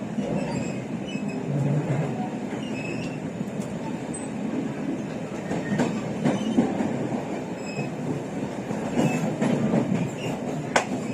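Chu-Kuang Express passenger carriage running on the rails, heard from inside: a steady rumble of wheels on track with scattered clicks and a sharper click near the end.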